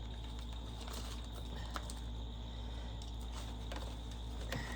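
A steady low hum with a few faint clicks and taps of light handling.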